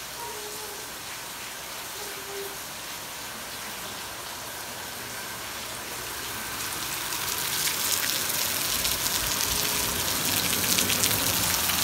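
Rain falling steadily, a dense hiss of drops that grows louder and fuller about halfway through as it goes from being heard indoors to out in the open.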